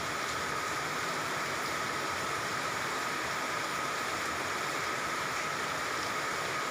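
Steady hiss of falling water, like rain, with a faint steady high tone in it.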